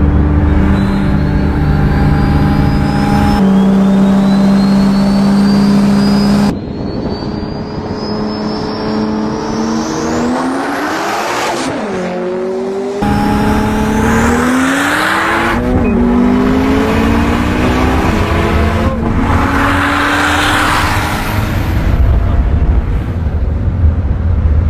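A high-performance car engine accelerating hard under full throttle, its pitch climbing and then dropping back at each upshift, with a high whine rising alongside. The sound changes abruptly several times where separate clips are joined.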